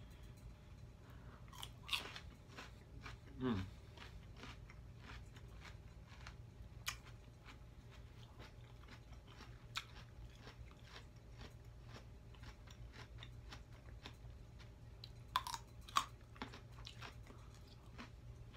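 Close-miked chewing and crunching of raw celery and carrot sticks, with a steady run of small wet mouth clicks and a few louder bites about two, three and a half, and fifteen seconds in.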